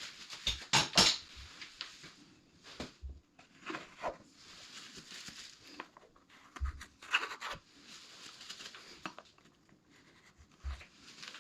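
Silicone sealant being applied around the base of a toilet pan: irregular scratching and clicking, with a few sharper knocks, the loudest about a second in and again about seven seconds in.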